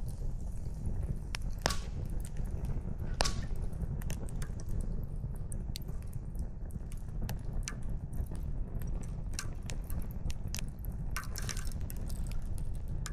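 Campfire of burning firewood crackling: irregular sharp pops and snaps over a steady low rumble, with a couple of louder snaps about two and three seconds in and a short burst of crackling near the end.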